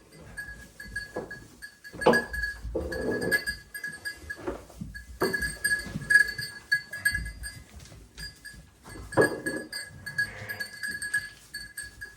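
Sheep bleating in short calls, several times, with a thin high pulsing tone running steadily behind them.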